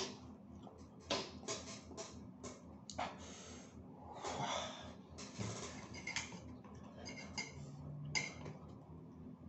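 A person chewing a mouthful of rice and sardines eaten by hand: an irregular string of short smacks and clicks, with breathing and the fingers working food on the plate.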